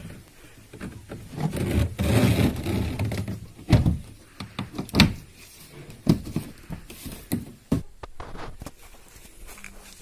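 The stripped plastic body of a washing machine being handled and set back in place: scraping and rustling, then several separate knocks and thuds of hard plastic.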